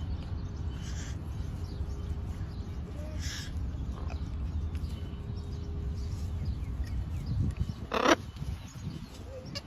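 A bird giving a few short, harsh calls, the loudest about eight seconds in, over a steady low rumble.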